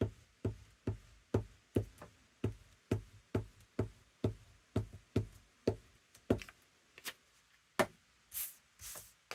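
Steady soft thumps on a tabletop, about two a second, as hands pat glued paper down onto a journal cover. The patting stops about seven seconds in, followed by a few light taps and two short paper swishes.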